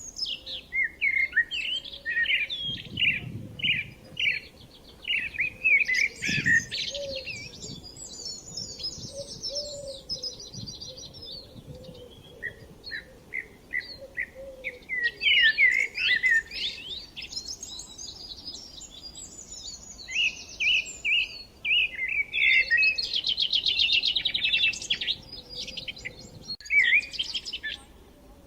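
Several songbirds singing at once: a dense, overlapping run of varied chirps and whistles, with fast rattling trills about eight seconds in and again later on.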